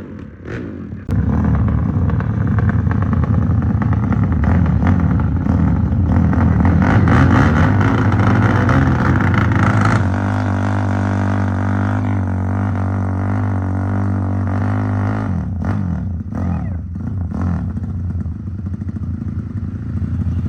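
Motorcycle engine running loud and revved, starting suddenly about a second in. The engine note changes abruptly about ten seconds in, then rises and falls unevenly near the end.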